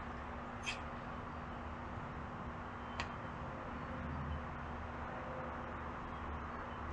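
Steady low background hum with two light clicks, one about a second in and another about three seconds in.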